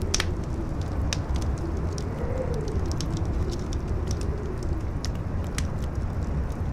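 Campfire crackling with sharp, irregular pops over strong wind: a steady low rumble with a faint howl that rises and falls in pitch.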